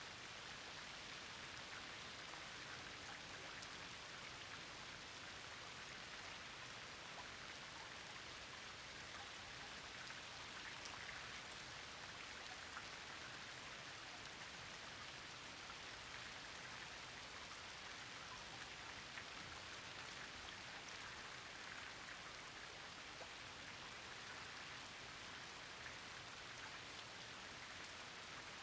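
Steady rain falling, a dense patter of small drop ticks over an even hiss.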